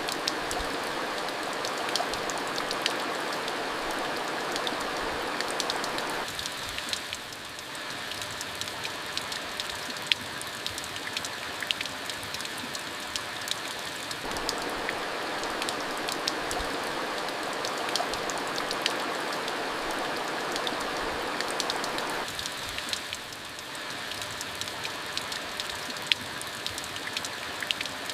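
Steady rain falling: a dense hiss scattered with sharp drip ticks. A fuller, deeper wash of rain fades out about six seconds in, returns around fourteen seconds, and fades again around twenty-two seconds.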